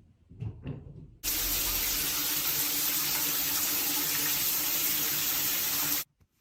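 Steady rushing noise of running water, starting suddenly about a second in and cutting off sharply near the end.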